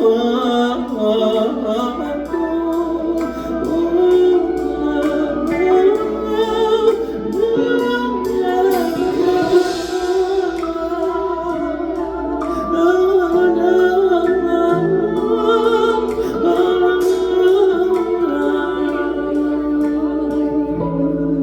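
Live R&B band music with singing: a sung melody over sustained chords.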